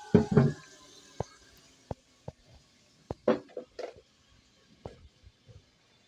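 Irregular knocks and clicks, with a louder clatter at the start and another about three seconds in: objects being handled and set down.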